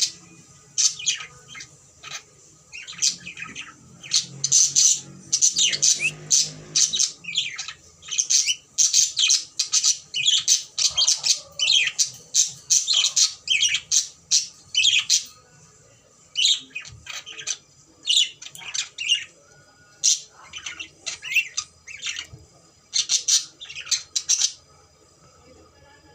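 Cockatiel squawking and chirping in rapid runs of short, high calls, often several a second, with brief pauses between runs.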